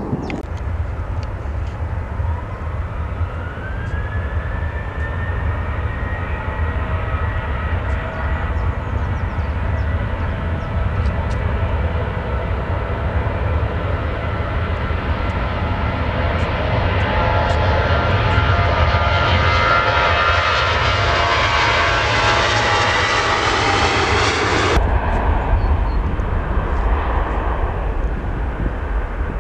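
Jet airliner's engines: a whine rises in pitch over the first few seconds, then the engine noise grows louder to a peak, and its higher part cuts off abruptly near the end.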